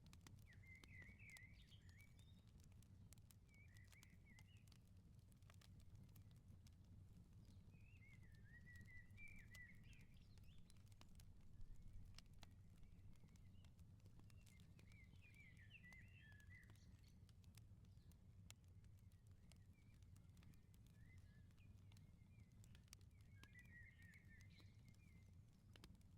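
Faint bird chirping in short twittering phrases every few seconds, over scattered crackles of a wood fire and a low steady rumble.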